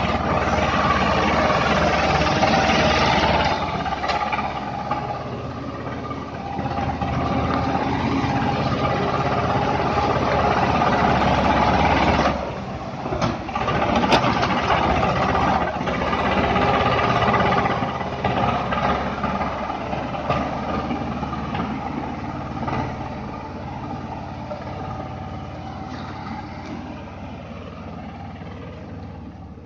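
Swaraj 724 tractor's diesel engine running steadily. It drops briefly about twelve seconds in, then picks up again and fades gradually toward the end.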